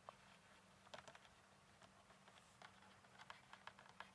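Near silence: faint room tone with a low steady hum and a scattered handful of faint, short clicks.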